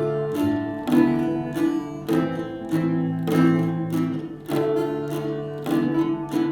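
Instrumental interlude of a passacaglia: plucked string instruments play the repeating ground, with a new note or chord about twice a second.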